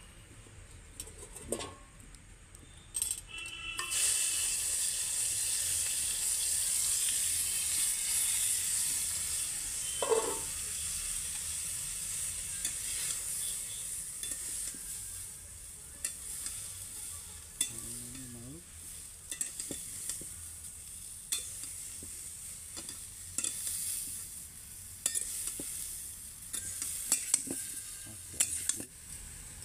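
Chopped broccoli hitting hot oil in a wok starts sizzling loudly about four seconds in. The sizzle slowly dies down while a metal spatula stirs the broccoli, scraping and tapping against the pan.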